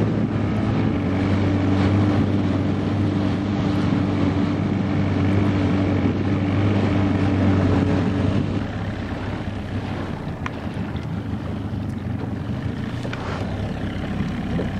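Small outboard motor running steadily as the boat moves, with wind buffeting the microphone. About eight and a half seconds in, the engine's steady note fades and the sound gets a little quieter.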